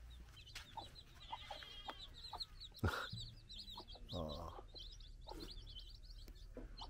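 Chickens clucking, with a run of thin high chirps throughout and a couple of louder calls about three and four seconds in.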